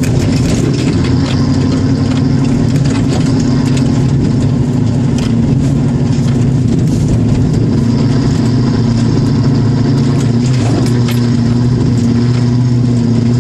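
Land Rover Discovery's V8 engine running at a steady, moderate pace while the vehicle is driven over a rough dirt track, with frequent small knocks and rattles from the bumps.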